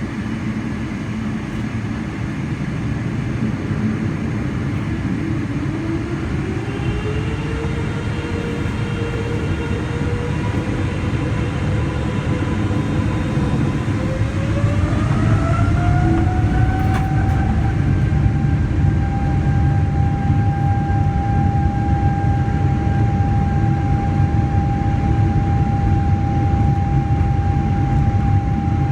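Boeing 777-300ER's GE90 engines spooling up to takeoff thrust, heard from inside the cabin. The engine whine rises in two steps, first about five seconds in and again about halfway through, then holds at a steady high pitch over a deep rumble that slowly grows louder.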